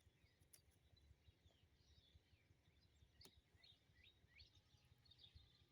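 Faint chirping of small birds, many short quick calls, over a low background rumble. A single sharp click comes about three seconds in.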